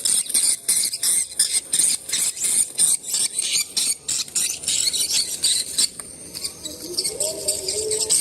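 Swiftlet lure calls played through a portable speaker: rapid, high-pitched twittering chirps, several a second. About six seconds in the chirping thins out and a lower wavering tone sounds for about a second.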